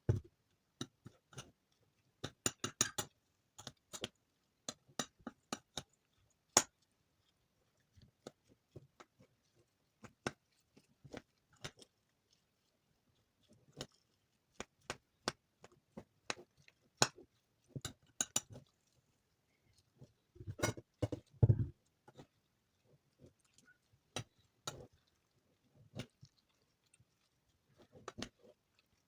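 Dry soap shavings crunching and crackling as they are handled by hand, in scattered short crisp clicks, with a denser, louder cluster about two-thirds of the way through.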